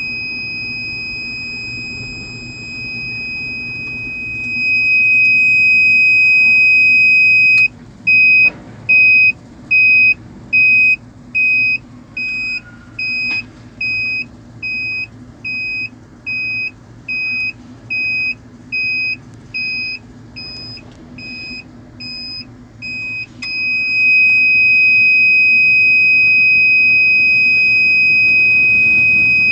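Loud electronic alarm buzzer sounding one high tone. It is steady at first, then beeps on and off a bit more than once a second for about sixteen seconds, then goes steady again, over a low background rumble.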